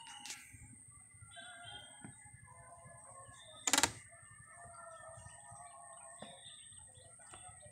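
Faint, scattered bird calls and chirps in mangrove forest, with one sharp knock a little past halfway through.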